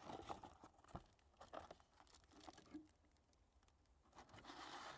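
Faint crinkling and small clicks of plastic snack wrappers being handled and set down.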